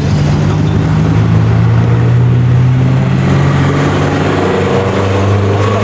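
A car engine running loudly and steadily at low revs, dropping slightly in pitch about four and a half seconds in.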